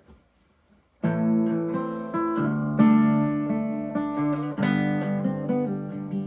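Acoustic guitar in open G tuning playing a fingerpicked riff, starting about a second in after a moment of near silence.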